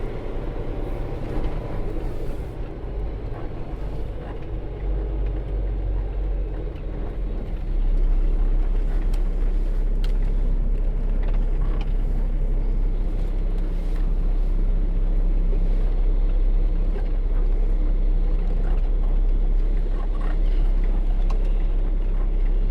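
Semi truck's diesel engine running steadily while the truck is maneuvered at low speed; the engine grows louder about eight seconds in and stays there.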